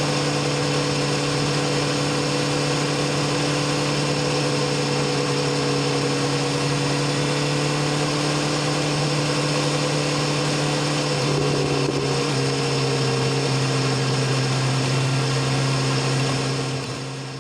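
BMW S1000RR inline-four engine and exhaust running at steady revs, its note holding an even pitch with a slight shift about two-thirds of the way through. The sound fades out near the end.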